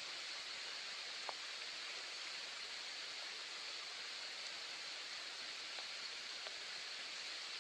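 Soft, steady rain falling as an even hiss, with a few single drops ticking out more clearly, the sharpest about a second in.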